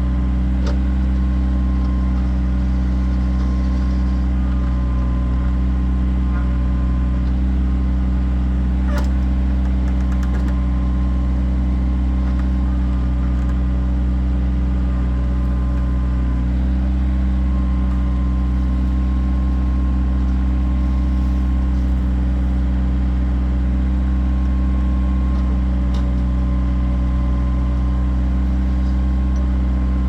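Kioti tractor's diesel engine running at a steady speed, with no change in pace, and a sharp click about nine seconds in.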